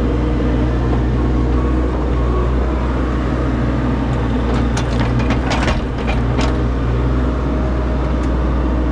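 Diesel engine of a compact excavating machine running steadily under load, with a cluster of sharp clanks and scrapes about halfway through.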